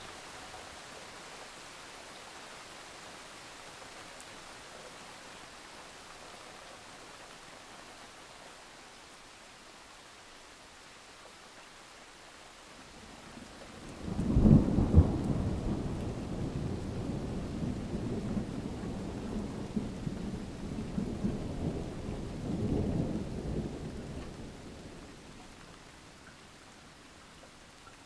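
Steady rain hiss, then about halfway through a long, low roll of thunder breaks in sharply, rumbling for about ten seconds with a second swell near its end before fading back to the rain.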